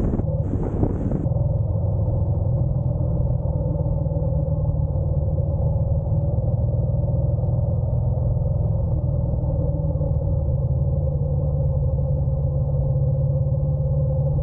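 Honda NC750X motorcycle's parallel-twin engine running with a steady low rumble. Hissing wind noise cuts off about a second in.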